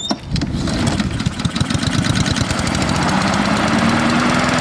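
Honda HRR2169VKA lawn mower's Honda GCV engine starting: it catches with uneven firing, then settles into steady running, its pitch rising slightly about three seconds in.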